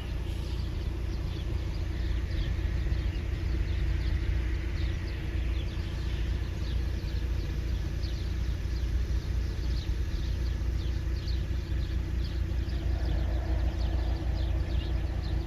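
Steady low rumble of wind on the microphone, with birds giving many short, high, falling chirps, more of them after the first few seconds.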